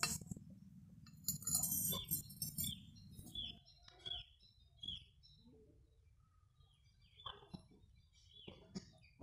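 A small bird chirping over and over, short falling chirps about two a second, thinning out after the first few seconds. A low steady rumble underneath stops suddenly about three and a half seconds in, and a couple of light knocks come near the end.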